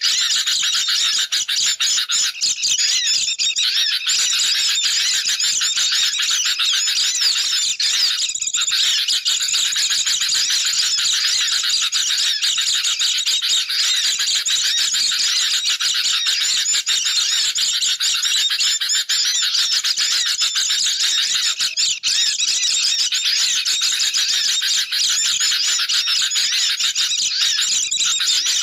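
Dense, unbroken chatter of many small birds calling over one another in high, rapid chirps and trills. It is a bird-trapping lure recording of agitated sooty-headed bulbuls mixed with white-eyes.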